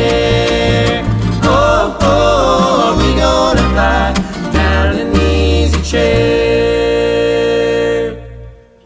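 Acoustic bluegrass band playing the closing bars of a song. It ends on a held final chord that rings and fades out about eight seconds in.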